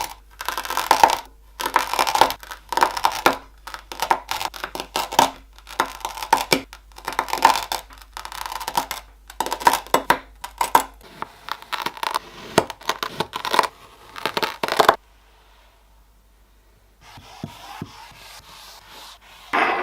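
Kinetic sand being worked by hand in a run of short, noisy strokes, about one or two a second, that stop about 15 seconds in. A softer stretch of sand sounds follows, then one last loud stroke at the very end.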